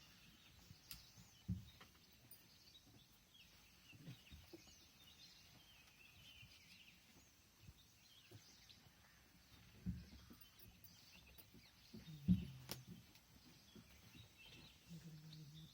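Faint bird chirps and calls scattered throughout, with a few low thumps, the loudest about twelve seconds in.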